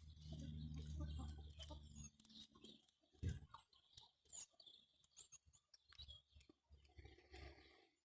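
Faint sounds of hens foraging in grass: scattered soft pecking ticks and quiet clucks. A low hum runs for the first two seconds, and there is a single thump about three seconds in.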